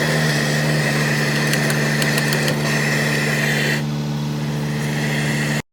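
A motor running with a steady low hum, along with a high whine and hiss that fall away about two-thirds of the way through while the hum keeps going.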